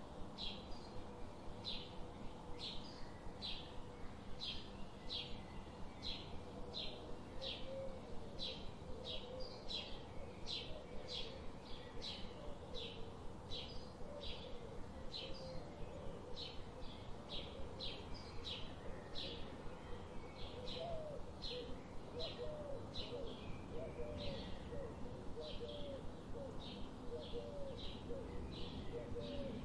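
Birds chirping: a short high chirp repeated evenly, about twice a second, with lower, short curling notes joining about a third of the way in.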